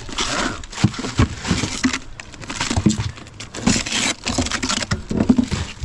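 Frozen food packs and ice being lifted out of a portable chest freezer: irregular knocks and clatter with plastic bags crinkling.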